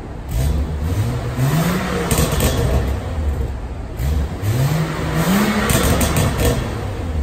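BMW N55 turbocharged straight-six revved twice through a valved aftermarket exhaust in quiet mode, valves closed. Each rev climbs for about two seconds and drops back, with a few crackles as the throttle comes off.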